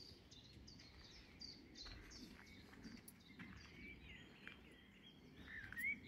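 Faint birdsong: scattered short high chirps and twittering from small birds, with a slightly louder rising whistled note just before the end.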